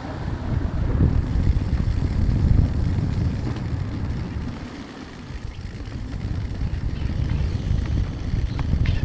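Wind buffeting the microphone: a gusty low rumble that eases off about halfway through, then builds again.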